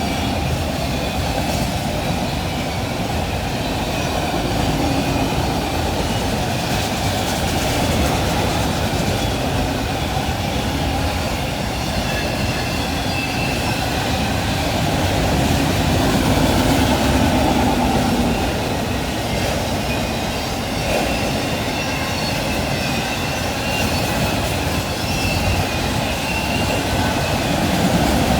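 Freight train of autorack cars rolling past at close range, a steady rumble with clickety-clack from the wheels over the rail joints and thin wheel squeals coming and going.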